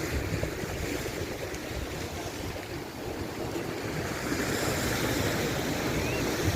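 Wind buffeting the microphone over the wash of sea water, a steady rumbling noise that grows a little louder near the end.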